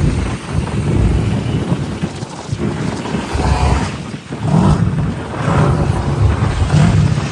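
Side-by-side UTV engine running under load, revving up and down a few times in the second half, with heavy wind buffeting the microphone.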